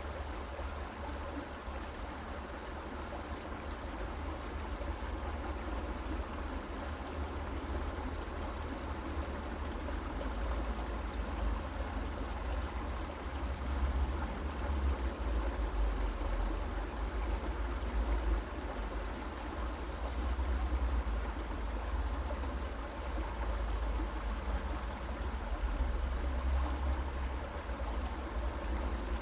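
Stream water running steadily, with a low rumble underneath that grows stronger from about ten seconds in.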